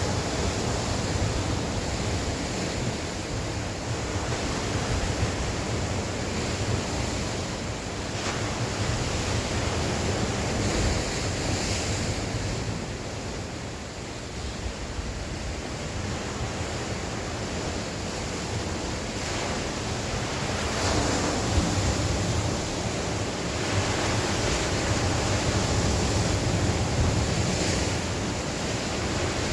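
Sea waves breaking and washing on the shore, swelling and easing over several seconds, with wind buffeting the microphone.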